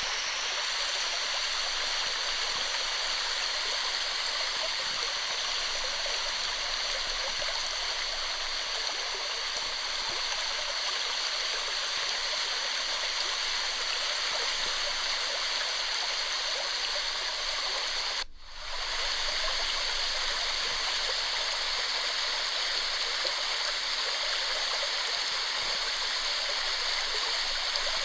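Waterfall water pouring down in a steady, even rush, with a momentary dip in level about two-thirds of the way through.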